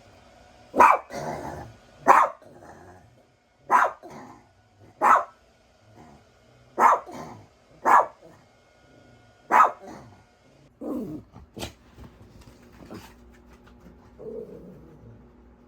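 Small dog, a chihuahua, barking repeatedly: about ten sharp barks, roughly one every one to two seconds, with a lower, weaker sound near the end.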